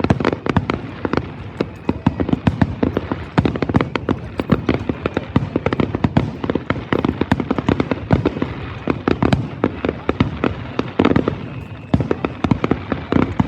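Fireworks going off in quick succession: a continuous run of sharp bangs and crackles, several a second, with no pause.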